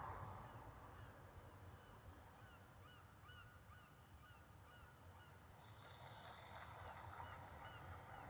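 A bird giving a long series of short honking calls, about two or three a second, faint and evenly spaced, over a steady high insect buzz.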